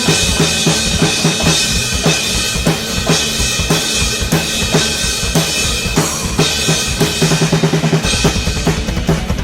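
Drum kit played hard along to a progressive-metal backing track: kick, snare and a steady wash of cymbals, with a quick run of rapid kick-drum strokes near the end.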